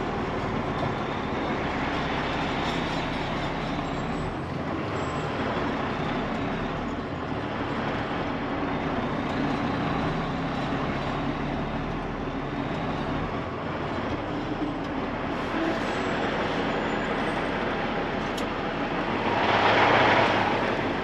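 Freightliner Columbia semi truck running, with a steady engine and road noise, and a brief louder whoosh about nineteen seconds in.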